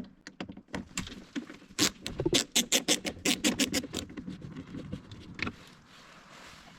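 A rapid run of sharp clicks and scratches from a screwdriver with a T20 Torx bit working screws out of the car's door. The clicks come fastest and loudest in the middle, about five or six a second, then thin out.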